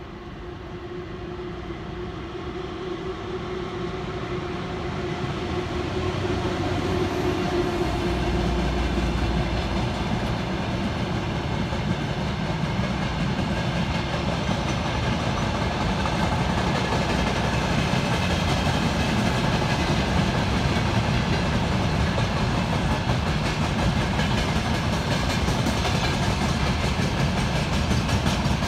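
A VL10U electric locomotive hauling a freight train of hopper wagons past. The sound grows louder over the first several seconds, with a steady whine early on, then settles into the continuous rolling noise of the hopper wagons going by.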